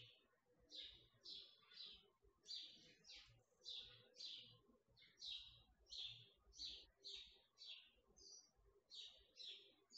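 A small bird chirping repeatedly and faintly: short chirps falling in pitch, about two to three a second, with a brief pause near the middle.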